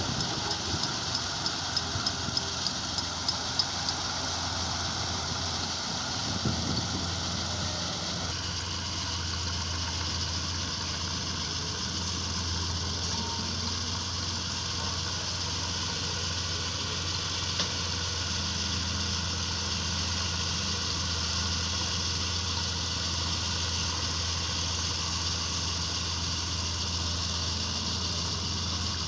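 Diesel engine of heavy earthmoving machinery running steadily, with a quick run of sharp clicks near the start.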